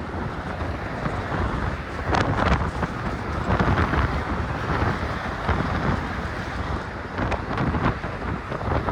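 Strong wind buffeting a cell phone's microphone in uneven gusts, with the rush of road traffic on the Golden Gate Bridge underneath.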